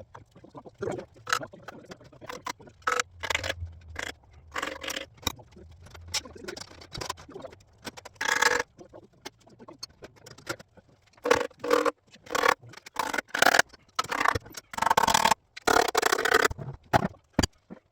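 Hand tools and metal engine parts clinking, knocking and scraping in irregular bursts during the teardown of a Honda K24A engine, with longer scrapes about eight seconds in and again near the end.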